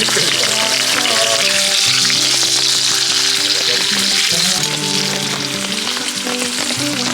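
Thick-cut bacon sizzling steadily as it fries, with background music playing over it.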